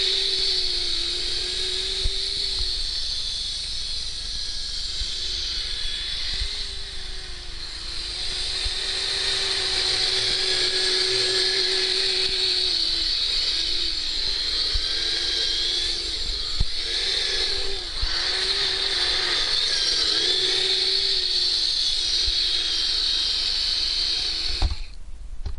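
Electric drive motor and gearbox of a Kyosho Blizzard RC snowcat whining as it drives. The pitch dips and comes back again and again with the throttle, over a steady high-pitched whir. The sound cuts out briefly near the end.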